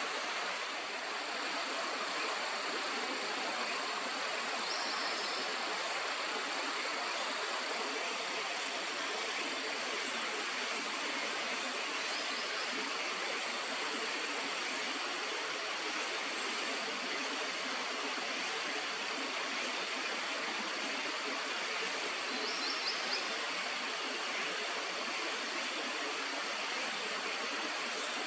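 Steady rush of flowing river water, an even hiss with no change.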